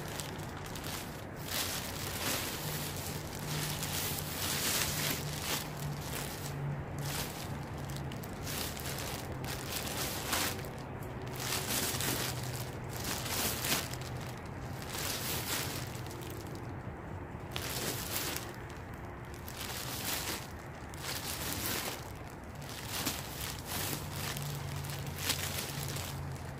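Rustling, crinkling and knocking of objects being handled, irregular throughout, over a steady low hum.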